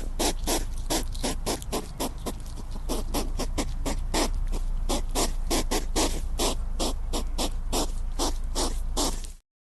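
Hedgehog sounds: a fast, even run of short sharp huffs, about five a second, over a low steady rumble, stopping abruptly near the end.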